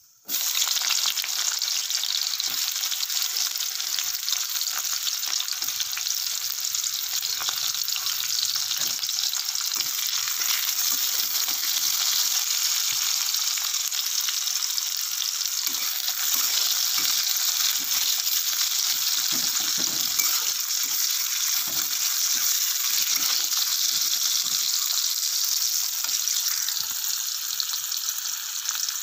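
Sliced onions sizzling loudly in hot oil in a kadai, stirred and scraped with a metal spatula. The sizzle starts abruptly just after the start and then holds steady, with short scrapes of the spatula against the pan through the middle.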